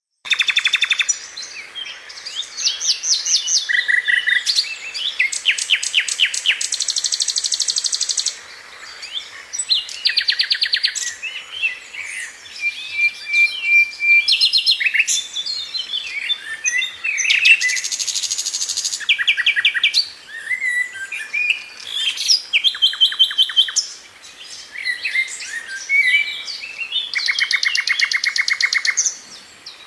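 Several birds singing and calling in open country: rapid trilled phrases and sharp chirps that follow one another and overlap throughout, with a short steady whistle in the middle.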